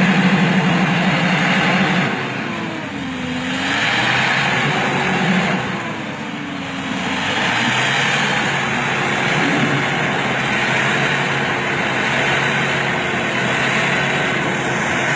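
4WD pickup truck engine revving under load, its pitch dipping and recovering twice, over a steady rushing noise.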